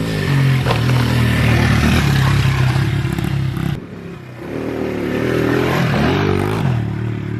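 Honda 70cc pit bike's small four-stroke single-cylinder engine revving under throttle as it is ridden. It eases off about four seconds in, then picks up again, rising and falling in pitch.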